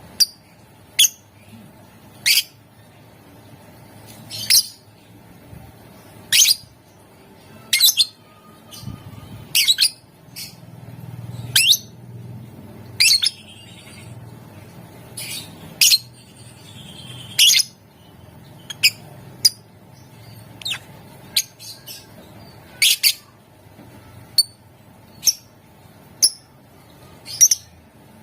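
Lovebird giving short, sharp, high-pitched shrieking calls, one every second or two with the odd quick pair, the kind of call used as a lure to set other lovebirds calling.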